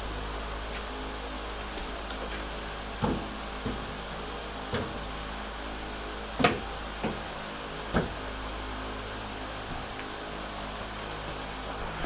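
Scattered knocks and clunks, about six over a few seconds with the loudest near the middle, over a steady background hum: a person moving about and handling things while working on a truck.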